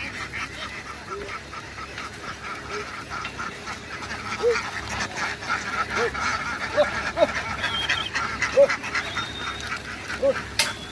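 A large flock of ducks quacking nonstop, many calls overlapping into a dense chatter that grows busier about four seconds in.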